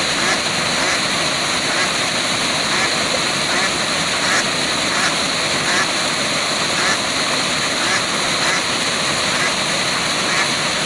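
Waterfall rushing steadily, an even wash of falling water, with faint short calls recurring about twice a second throughout.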